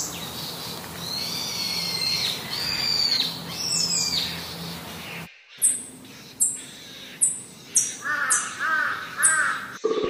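Birds calling over a steady rushing background: warbling, arching calls in the first half, then a run of six sharp high falling whistles about every 0.7 s, with three short arching calls under them near the end.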